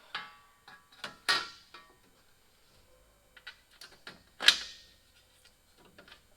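Irregular knocks and clatters, like tools and metal parts being picked up and set down, with the loudest about four and a half seconds in.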